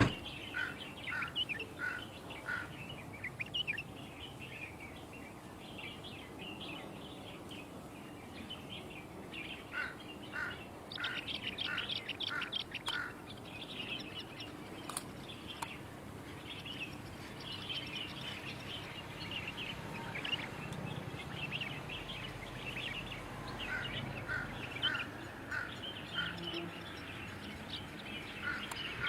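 Birds calling and chirping continuously, with runs of short repeated notes, about three a second, that come back three times.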